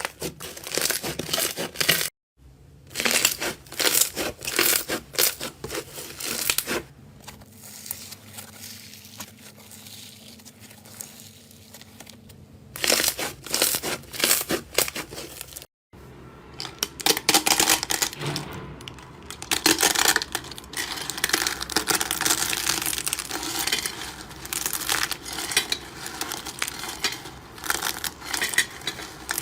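Slime being squeezed, pressed and stretched by hand, making dense runs of fast crackles and clicks. The sound drops out briefly twice where one clip gives way to the next, and is quieter for a few seconds in the middle.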